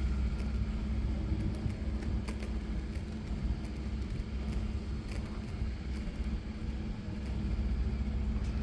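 A vehicle engine running steadily, a low rumble with a faint steady hum above it and a few light clicks.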